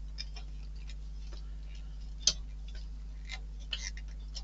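Light, irregular clicks and taps of small model-kit parts being handled on a work surface, with one sharper tick about two seconds in, over a steady low electrical hum.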